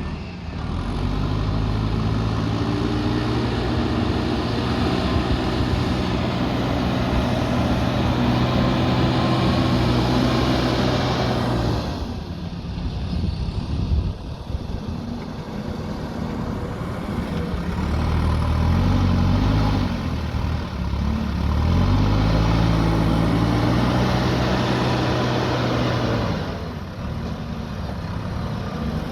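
Heavy diesel earthmoving machine's engine working under load. It revs up about a second in and holds steady, then eases off at about twelve seconds. It revs up again twice more, around eighteen and twenty-two seconds, and drops back near the end.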